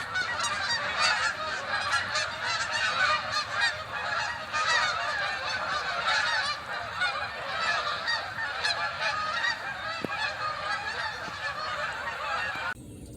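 Dense chorus of many birds calling over one another, as from a large flock. It cuts off abruptly near the end.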